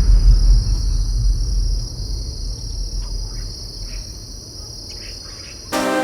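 Forest insects chirring in a steady, high-pitched continuous drone, with a low rumble under it that fades out over the first two seconds. It cuts off abruptly near the end when music comes in.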